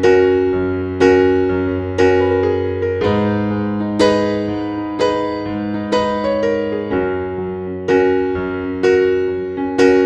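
Slow instrumental piano music: soft chords struck about once a second, each left to ring and fade over a changing bass note.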